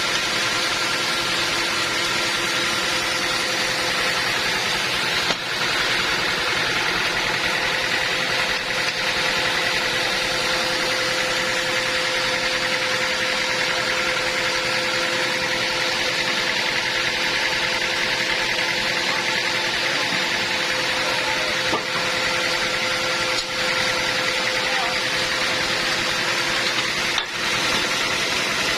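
Sawmill machinery running steadily: a continuous mechanical drone with a few held tones, briefly dipping twice.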